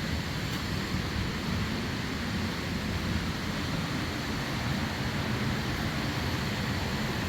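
Waterfall rushing: a steady, even noise of falling water, heaviest in the low end, with no breaks.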